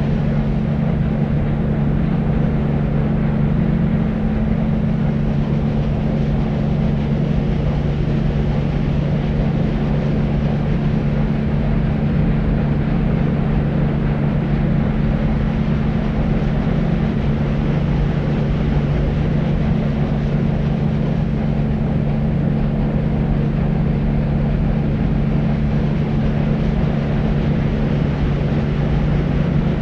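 Deep white noise for sleep: a steady, unchanging low hiss weighted toward the bass, with a faint steady hum under it and little treble.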